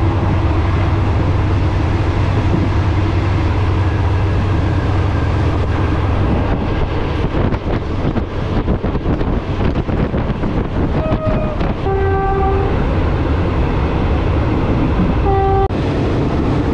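Diesel passenger train running, heard from inside an open-windowed carriage: a steady engine drone and rolling noise, with the wheels clattering more from about six seconds in. A train horn sounds in the second half, a short note followed by a longer blast, then another short blast a few seconds later.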